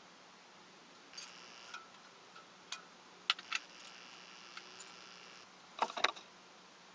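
Metal tools or engine parts being handled: a scatter of sharp metallic clinks and light knocks, some ringing briefly, with a louder cluster of knocks near the end.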